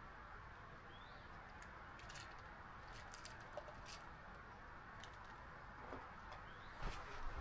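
Quiet forest ambience: a steady low hiss with a few faint short bird chirps, and footsteps on a trail starting near the end.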